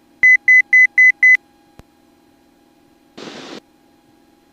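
Five quick high electronic beeps, about four a second, heard through the aircraft's headset audio. A click follows, then a brief burst of hiss.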